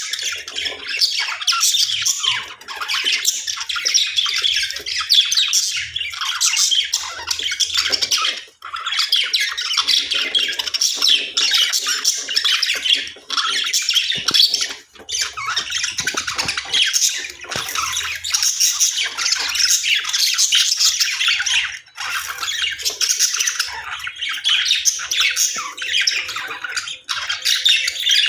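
Budgerigars warbling and chattering nonstop, a dense stream of fast chirps and squawks with only a few brief pauses.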